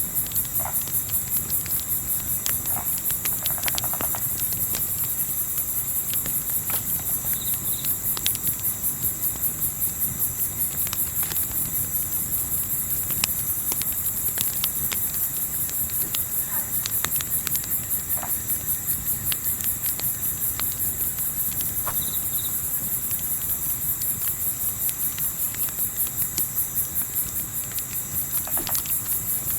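Crickets chirping in a fast, even pulsing rhythm, with scattered crackles from a campfire and a low steady rumble underneath.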